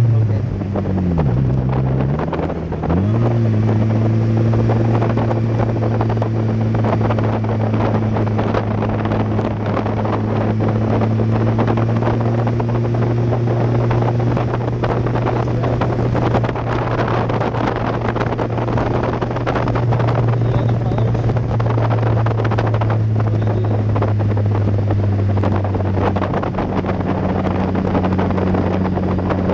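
Exocet kit car's four-cylinder engine running at steady revs under way, with wind noise over the open cockpit. About a second in the revs drop sharply and climb back within two seconds, then hold steady.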